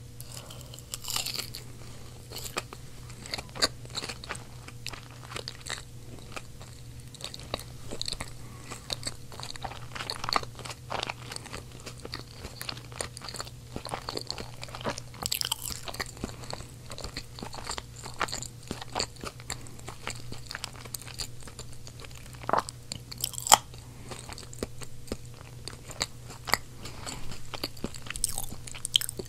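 Close-miked chewing of whole seasoned baby potatoes: a dense, irregular run of small mouth clicks and smacks, with a low steady hum underneath.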